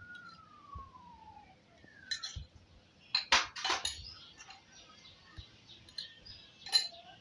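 Kitchen utensils clinking as ground spices go into a bowl of chicken: a few sharp clinks, the loudest a quick cluster about three and a half seconds in and another near the end. A faint falling whistle sounds in the first second and a half.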